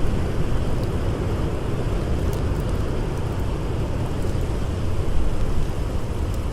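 Blizzard wind blowing steadily, a deep rushing noise, with a few faint crackles from a campfire.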